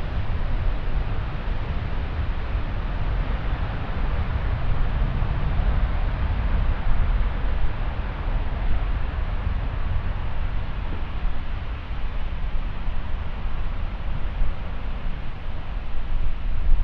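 Steady jet airliner engine noise from aircraft movements at the airport, with wind buffeting the microphone as a fluttering low rumble.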